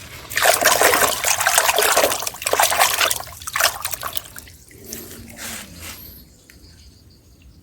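Tap water running and splashing over a small plastic toy as it is rinsed of sand, loud for about four seconds, then fainter and stopping near the end.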